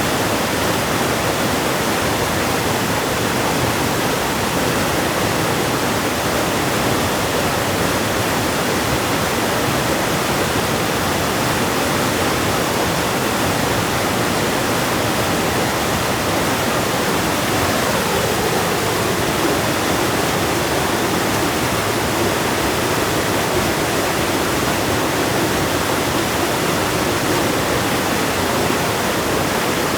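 River water rushing in a steady, unbroken roar.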